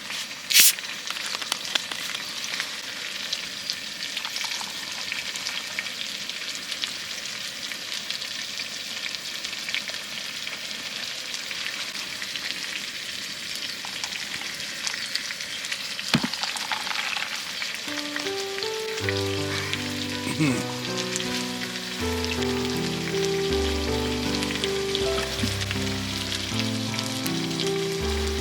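Food sizzling on a ceramic plate over a campfire: a steady frying hiss with small crackles, and two sharp clicks at the very start. Background music comes in about two-thirds of the way through.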